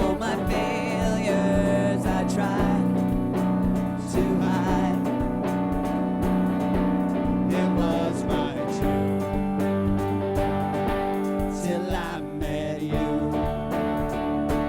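Live worship band playing a song with guitar and sustained chords, with some singing.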